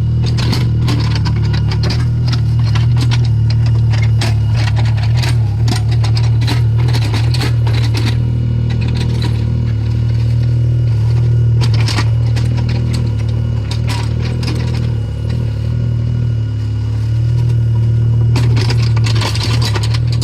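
Mini excavator's engine running steadily under work, with repeated scraping and clattering as it moves earth and stone. The clatter is heaviest around twelve seconds in and again near the end.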